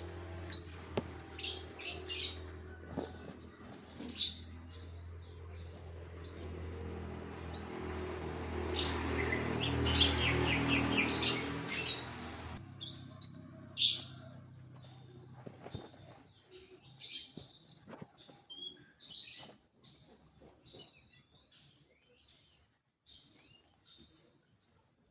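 Domestic canary giving short high chirps and calls at irregular intervals, with a brief rapid trill about ten seconds in. A steady low hum underneath cuts off suddenly about halfway through.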